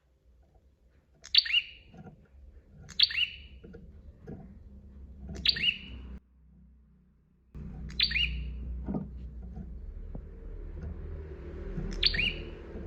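Prinia (prenjak) calling: five short, sharp chirps a few seconds apart, each sweeping quickly down in pitch, over a low steady rumble that drops out briefly about halfway through.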